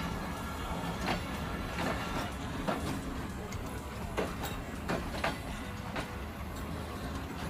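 Railway station sounds: a steady low rumble with irregular clicks and knocks about once a second.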